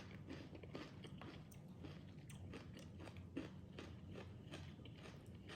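A person chewing crisp raw vegetables with faint, crunchy bites, about three a second.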